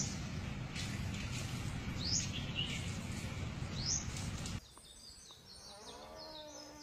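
Steady outdoor background noise with short, high, rising chirps about every two seconds. About halfway through, it drops abruptly to a much quieter scene with faint high chirps and a brief pitched whine.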